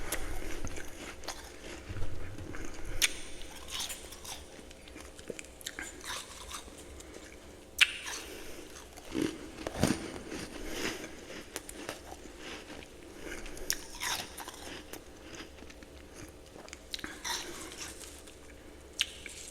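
A person biting and chewing ice close to the microphone: sharp crunches at irregular intervals with quieter grinding chews between them.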